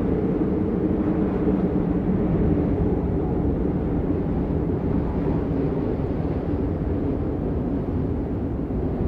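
Steady rain: a dense, even wash of noise, heavy in the low end with little high hiss, unchanging throughout.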